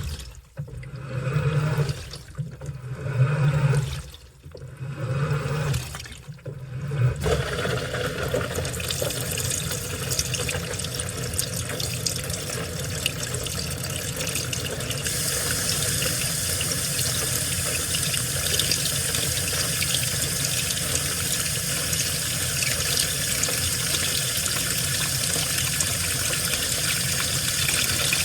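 Washing machine running, with water in the drum: for the first several seconds water splashes in short pulses about every two seconds over a low motor hum, then a steady rush of water pouring in that grows brighter about halfway through.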